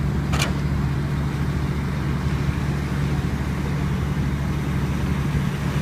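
A motor engine running steadily with a low hum, and one brief hiss about half a second in.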